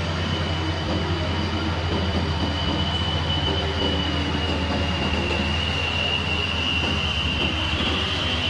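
Heavy loaded truck running: a steady low engine drone with a high, steady whine over it that grows stronger and rises slightly near the end.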